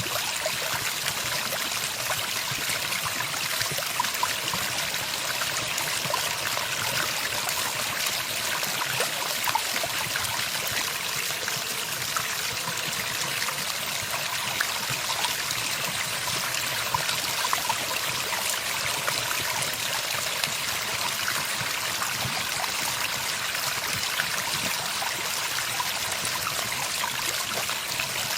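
Steady running water, a stream trickling and splashing without a break.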